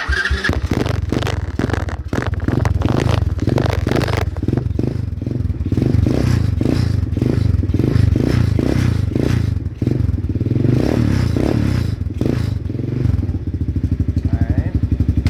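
Small single-cylinder engine of a Taotao 125cc quad running loudly, its level rising and falling as it is revved, with some rattle.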